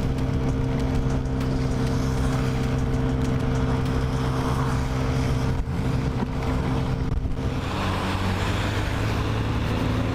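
Honda Ruckus scooter's 49cc four-stroke single running at a steady cruise, dropping to a lower pitch about seven and a half seconds in as it slows. A rushing hiss of wind and wet road lies under it.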